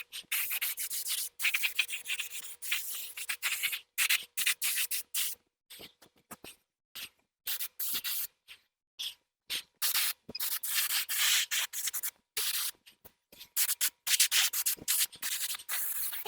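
Hand sanding: quick, irregular back-and-forth scrubbing strokes of an abrasive, with short pauses between runs of strokes.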